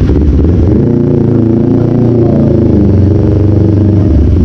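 Kawasaki Z400 parallel-twin engine breathing through an aftermarket Orion slip-on muffler, running loud, its pitch rising and falling once in a rev about a second in.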